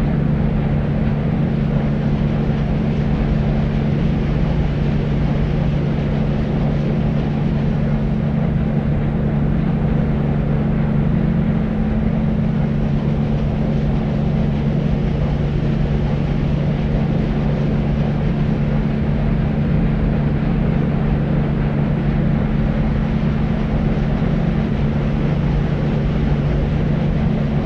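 Deep white noise: a steady, unchanging hiss weighted heavily toward the bass, with a steady low hum under it and little treble.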